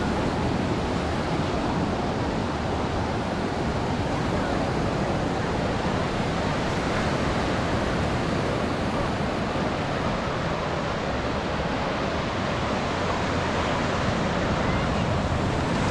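Ocean surf washing onto a sandy beach, a steady rush of noise with no distinct breaks.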